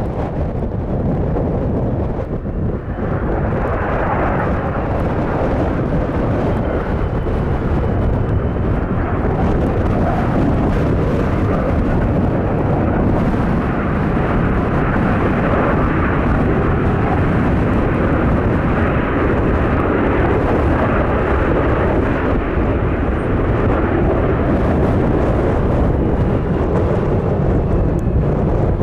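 DC-9 jet with Pratt & Whitney JT8D engines, a steady loud roar that fills out and grows slightly louder from about three seconds in.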